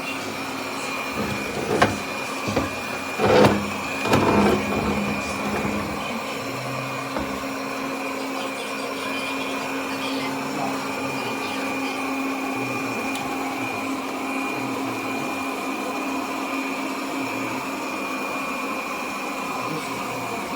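Airzeen R7 robot vacuum running with a steady, high-pitched motor whine, with a few louder knocks and rustles over a couple of seconds near the start.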